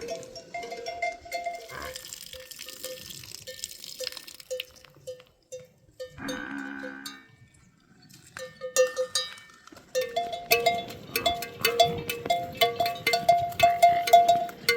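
Bells on grazing livestock clanking irregularly, at least two bells of different pitch, sparse at first and then clanking fast and steadily from about two-thirds of the way through. A short animal call comes near the middle.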